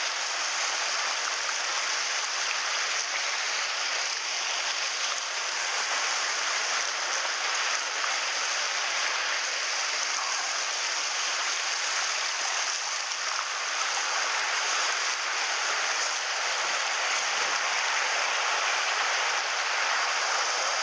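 Mountain stream water rushing, a steady, even rush with no breaks.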